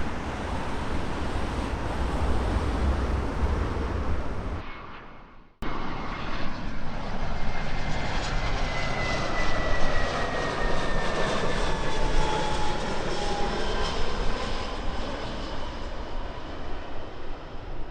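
Low wind rumble on the microphone that fades out to an abrupt cut about five and a half seconds in. Then a jet airliner on landing approach passes, its engine noise steady with a whine that slowly falls in pitch as it goes by.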